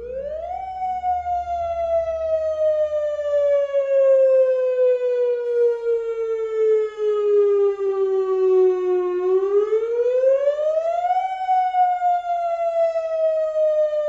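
Civil defense siren wail sounding as part of an emergency alert. Its pitch rises in under a second, falls slowly for about eight seconds, climbs again over about two seconds and starts another slow fall.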